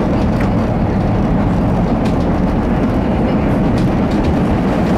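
A CTA Blue Line rapid-transit train running at speed, heard from inside the rear car: a steady, loud rumble of wheels on rails with a few sharp clicks.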